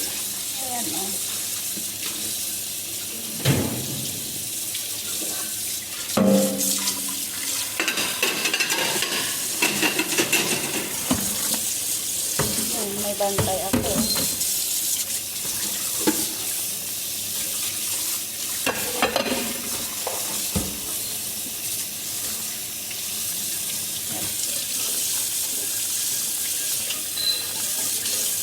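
Tap water running steadily into a kitchen sink, with a few knocks and clatters of dishes here and there.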